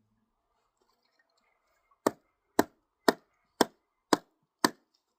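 Kindling being chopped: six sharp strikes, about two a second, starting about two seconds in.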